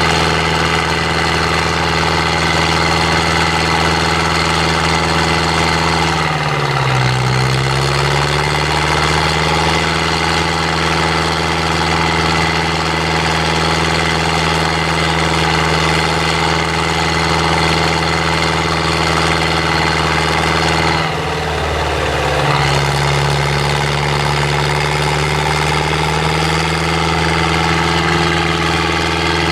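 IFA W50 truck's diesel engine running steadily at a constant speed. Twice, about seven seconds in and again about twenty-one seconds in, its pitch sags briefly and then climbs back.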